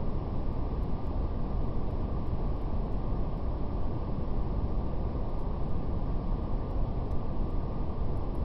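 Steady, deep brown noise with an even rumbling hiss, with a few faint, scattered crackles of a fire.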